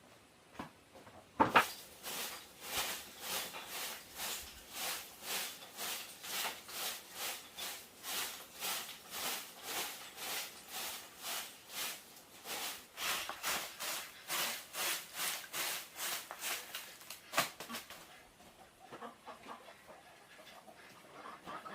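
Hand saw cutting wood in steady back-and-forth strokes, about two to three a second, starting after a sharp knock and stopping a few seconds before the end.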